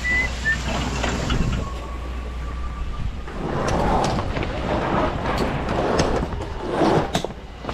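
Truck engine running steadily, with rumbling and a run of rattling clicks and knocks over it from about three seconds in.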